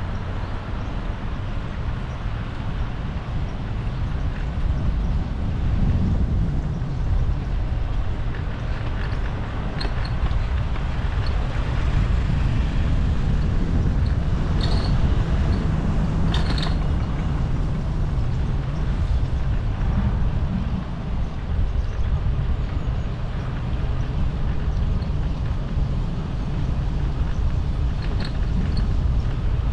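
Wind buffeting the microphone on a moving bicycle, a steady low rumble mixed with road noise, with a couple of brief high squeaks about halfway through.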